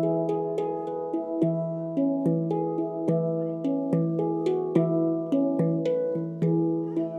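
Handpan played by hand: a steady flow of struck notes, about three a second, each ringing on and overlapping the next.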